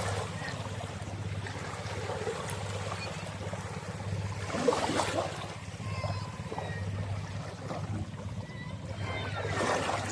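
Boat engine running steadily under the rush of water, with two louder surges of water noise, about halfway and near the end.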